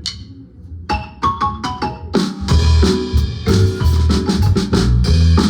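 Guatemalan marimba band starting a tune. A sharp click at the very start, then a short run of marimba notes about a second in. A little after two seconds, drum kit and low bass notes come in under the marimba.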